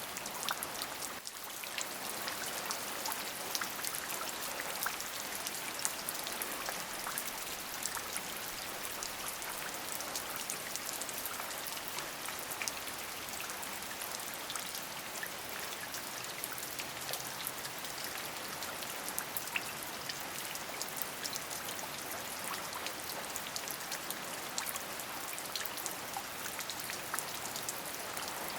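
Steady rain, with many individual raindrops ticking sharply through it. The level dips briefly about a second in.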